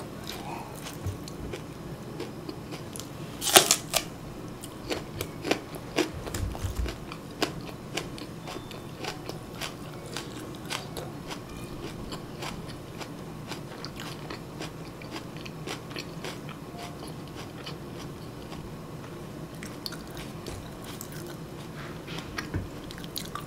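A crisp bite into a stalk of raw green onion about three and a half seconds in, followed by chewing with small crunches that grow sparser and quieter.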